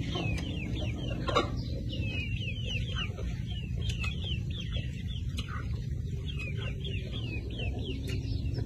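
Birds chirping in the background: a quick, continual run of short, high, falling chirps, over a steady low rumble. A single sharp click about a second and a half in.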